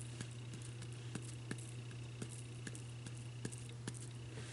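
Faint light ticks, two to three a second, as a bottle of chunky glitter is tapped to sprinkle a little at a time, over a steady low hum.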